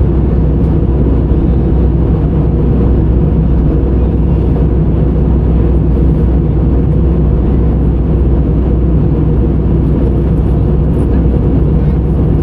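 Steady, loud low rumble of an airliner's cabin noise, its engines and rushing air heard from inside the passenger cabin.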